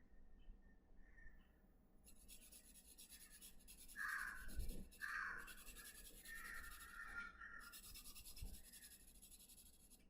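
Faint scratching of a drawing tool on paper, sketching strokes, with the loudest strokes about four and five seconds in.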